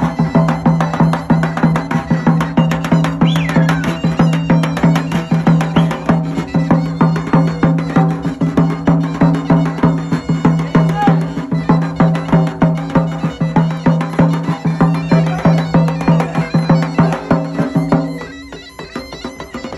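Traditional Black Sea horon folk music: a fast, even drumbeat under a loud droning melody instrument. It drops sharply in volume about a second before the end.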